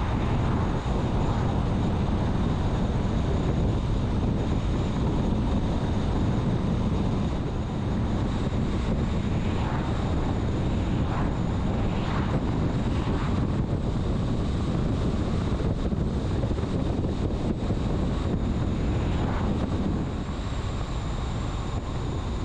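Steady road and wind noise of a vehicle travelling at highway speed, with wind buffeting the microphone.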